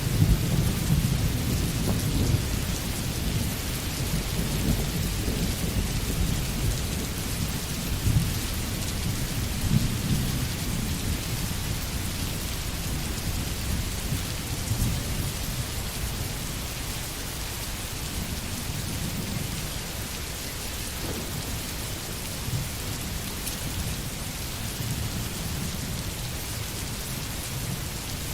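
Steady rain falling, with a low rumble of distant thunder that is strongest at the start and fades away over the first ten seconds or so.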